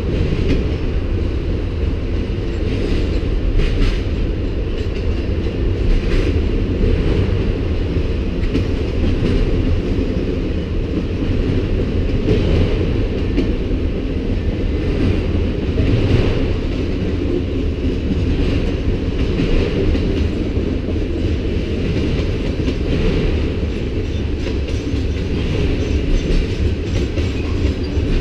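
Manifest freight train's autorack and covered hopper cars rolling past: a steady rumble of steel wheels on rail, with an occasional clack over the rail joints.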